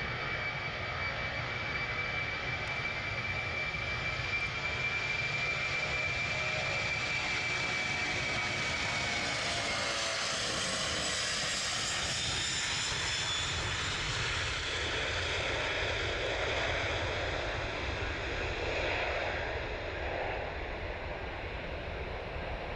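Boeing 747's four jet engines at takeoff power: a steady loud roar with a high whine that slides down in pitch around the middle.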